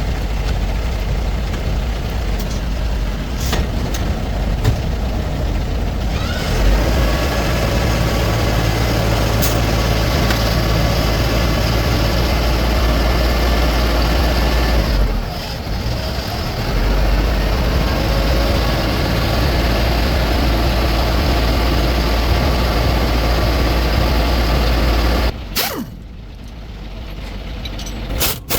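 Heavy 4x4 truck running, its engine drone steady, with a thin steady whine above it. The sound dips briefly around the middle and drops away suddenly near the end, followed by a few sharp clicks.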